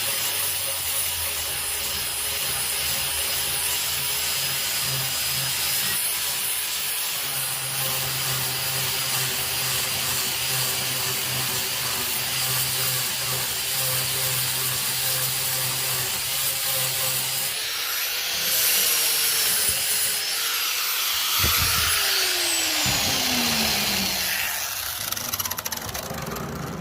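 Power sander running against a rough-sawn oak slab: a steady motor whine over a scratchy grinding of abrasive on wood. Over the last few seconds the motor's pitch falls as it winds down.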